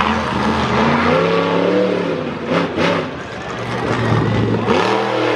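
Monster truck engine revving hard, its pitch repeatedly climbing and dropping, with a few brief harsh noises about halfway through and again near the end.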